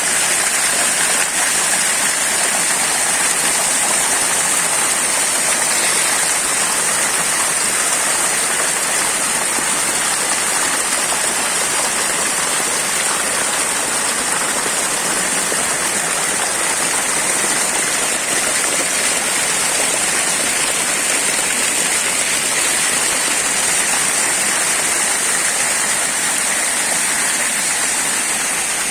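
Steady rush of water from a waterfall, an even hiss-like sound with little deep rumble, unchanging throughout.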